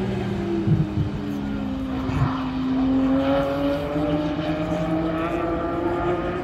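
A car engine on a race track. Its note falls as the car slows through the corner, then climbs steadily as it accelerates away.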